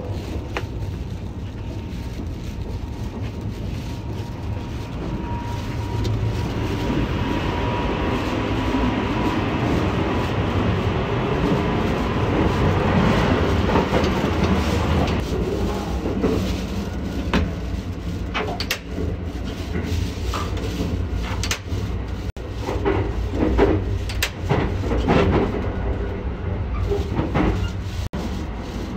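Sunrise Seto sleeper train running, heard from inside the carriage: a steady low rumble and rail clatter, with a thin whine for a few seconds from about six seconds in. In the second half come a series of sharp knocks and clicks.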